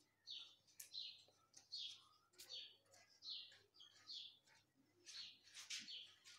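Faint bird chirping: short, high, downward-sweeping chirps repeated about two a second.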